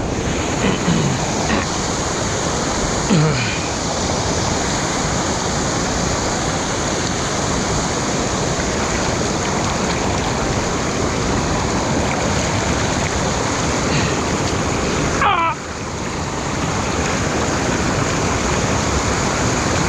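Steady rush of a small waterfall heard close up from a head-mounted GoPro. About fifteen seconds in there is a brief gurgle, and the level dips and then swells back.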